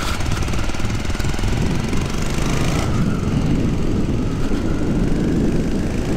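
Benelli motorcycle engine running steadily, its sound changing and growing rougher about three seconds in.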